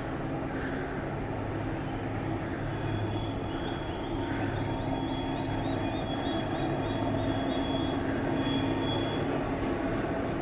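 TasRail TR class diesel-electric locomotives running with a steady low engine drone that grows slightly louder. Midway a quick string of about eight short, high, repeated chirps sounds over the drone.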